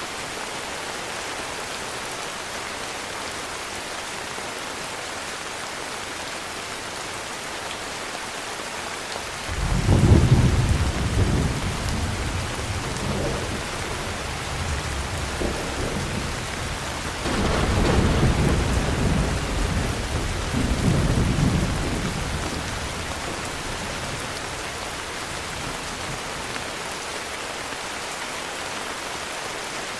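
Steady heavy rain with rolling thunder: a sudden deep rumble breaks in about a third of the way through, and a second rumble swells a few seconds later before dying away into the rain.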